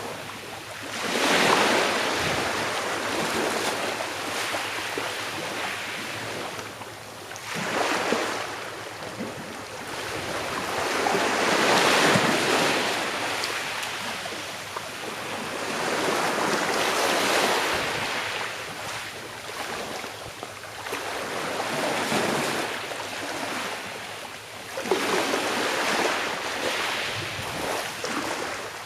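Small sea waves breaking and washing up on a shore, a rushing hiss that swells and fades every four to five seconds.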